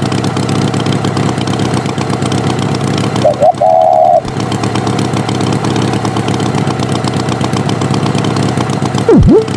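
Cartoon tractor engine sound effect running steadily. A short wavering tone sounds about three and a half seconds in.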